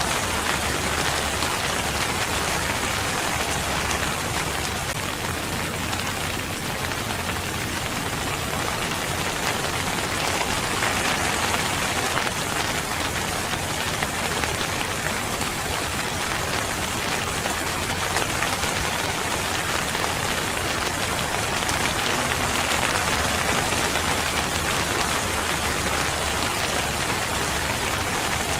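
Steady rain falling and pattering on surfaces, a dense, even hiss of drops with no let-up.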